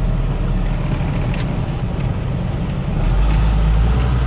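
Tractor-trailer's diesel engine running at low speed as the truck creeps forward; the low rumble grows louder about three seconds in.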